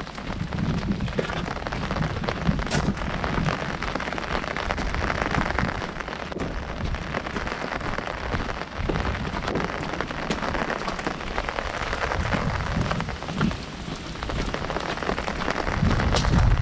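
Heavy rain falling on an umbrella overhead: a dense, steady hiss of many drops hitting the canopy, with a low rumble that grows louder near the end.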